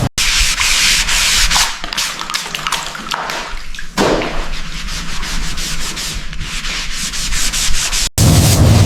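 Sanding: an abrasive scraping and rubbing over a surface in quick, uneven strokes. It cuts off abruptly about eight seconds in, giving way to a louder, deeper noise.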